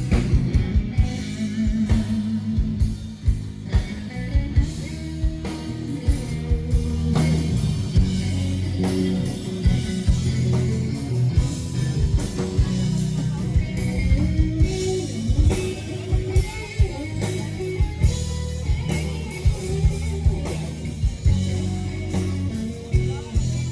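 Live band music: guitar and bass over a steady drum beat, with no clear sung words.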